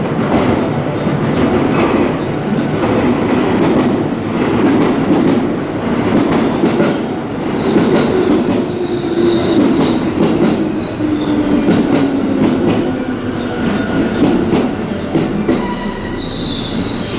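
Electric commuter train pulling into a station platform and braking, with wheels clacking over rail joints. A whine slowly falls in pitch as it slows, and short high brake and wheel squeals come in during the second half.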